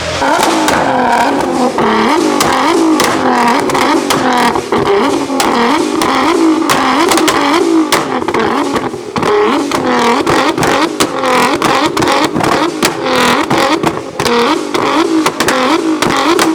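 Tuned Nissan GT-R R35's twin-turbo V6 blipped hard over and over, its pitch rising and dropping two or three times a second. Sharp exhaust pops and bangs crack between the revs, the sound of a car tuned to throw flames from the exhaust.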